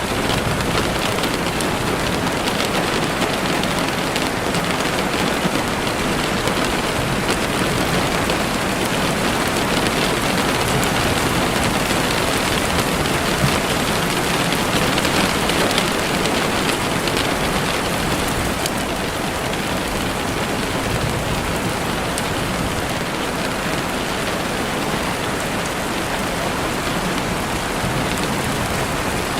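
Heavy rain pattering steadily on a window pane, a dense, even hiss of drops with small swells in intensity.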